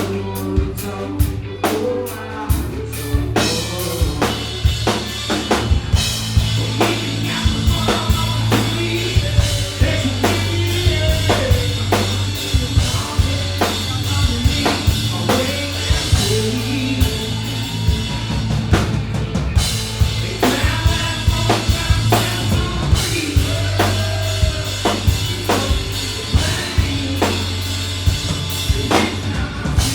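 Live band music from a country-rap concert: a drum kit keeps a steady beat of bass drum and snare hits over a sustained bass line and guitars.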